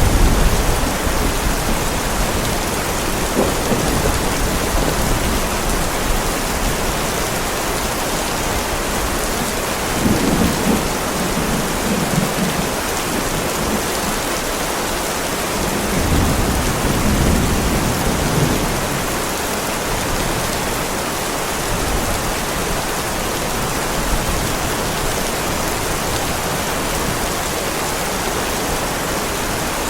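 Heavy rain pouring steadily onto a driveway, a dense even hiss. Low thunder rumbles swell at the very start, again about ten seconds in, and once more a few seconds later.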